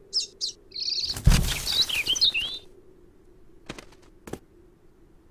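Cartoon bird chirping: two short high chirps, then a sudden thump with a noisy flurry and a jumble of agitated chirps lasting about a second and a half. Two faint clicks follow near the end.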